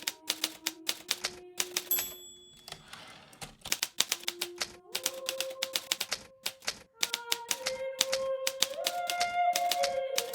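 Hermes Baby portable typewriter being typed on, its keys striking in quick runs of sharp clacks. About two seconds in, the margin bell dings, then a short sliding sound as the carriage is returned, and typing resumes.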